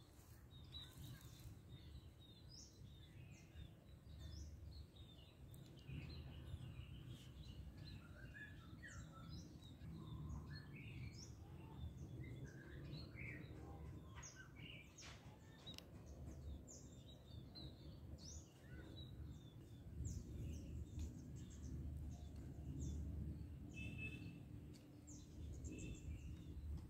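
Birds chirping and calling in many short notes over a low, steady rumble of background noise.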